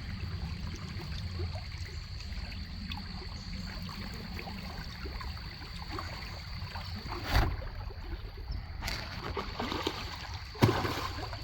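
Shallow river water running and trickling steadily over stones. A few short knocks or splashes come in the second half.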